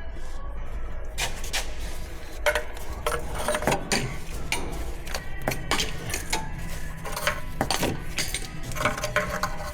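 Hand tools clicking and clinking against metal in an engine bay, in irregular sharp strikes starting about a second in, over a steady low hum.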